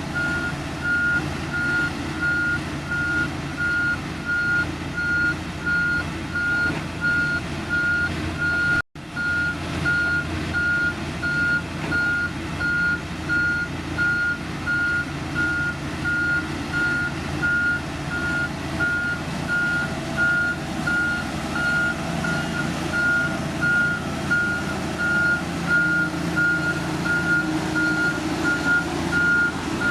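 A heavy construction machine's reversing alarm beeping steadily, about twice a second, over its running diesel engine; the sound drops out for an instant about nine seconds in.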